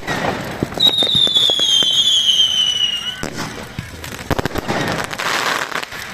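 Fireworks going off: a rapid run of sharp bangs and crackles, with a whistling firework's shrill tone gliding slowly downward for about two seconds near the start.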